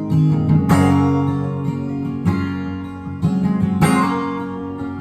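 Instrumental break in a song: acoustic guitar strumming chords that ring out, with the strongest strokes just under a second in and again near four seconds in.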